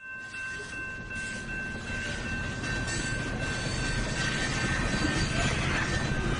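Train sound effect growing steadily louder: a low rumble with a few steady high squealing tones held over it.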